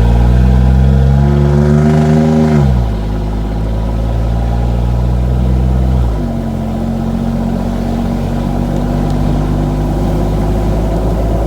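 Jeep engine running through an exhaust with the muffler removed, just the downpipe, as the Jeep accelerates on the road. The engine note climbs, drops sharply about two and a half seconds in as the Jeep shifts up, and drops again about six seconds in. It then holds a steady cruising note.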